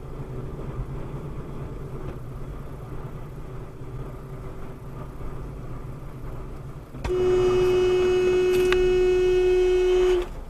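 Low steady rumble of a vehicle driving, then about seven seconds in a vehicle horn sounds in one long steady blast of about three seconds.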